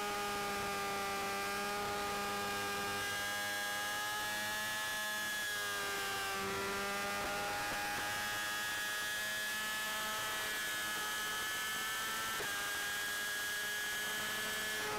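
Motorcycle engine running at steady highway speed, heard as a pitched whine whose pitch sags and recovers slightly a couple of times. There is little wind noise.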